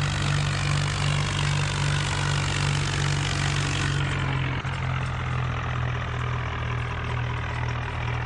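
John Deere tractor's diesel engine running steadily, with a low even drone. The sound turns duller about four seconds in.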